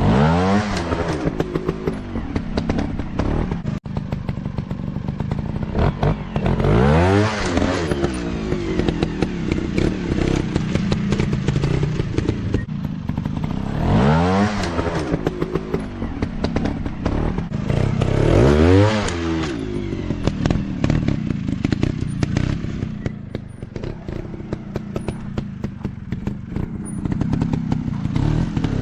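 Dirt bike engines running hard over a steady engine drone. Bikes pass close four times, each time with the engine note sweeping steeply in pitch as it goes by.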